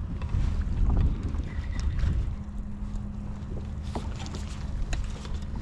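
Wind buffeting the microphone, a low rumble loudest in the first half. A steady low hum comes in a little after two seconds, with scattered small ticks.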